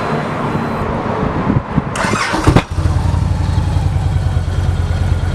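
2013 Victory Cross Country Tour's 106 cubic inch V-twin with Victory Performance touring exhaust, turned over by the starter about two seconds in, catching and settling into a steady, pulsing idle.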